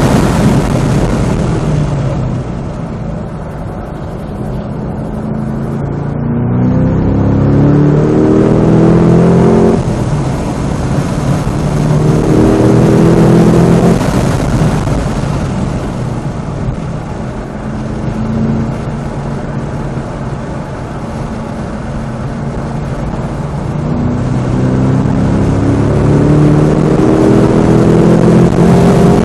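Cadillac CT5-V Blackwing's supercharged 6.2-litre V8 pulling hard on track, its note climbing with the revs, dropping sharply about ten seconds in, climbing again, running lower through the middle, then rising once more near the end, over steady road and wind noise.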